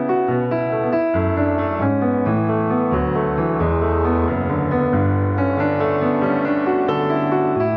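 Background piano music, a calm melody over a bass line.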